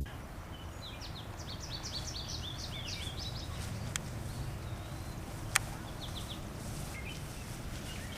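Outdoor ambience: small birds chirping in quick runs of short high notes during the first few seconds and briefly again later, over a low steady rumble, with two sharp clicks in the middle.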